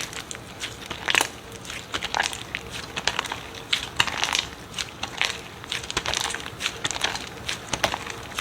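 Slime being squeezed and pressed by hand, giving a string of irregular crunching, crackling clicks and short squishy bursts.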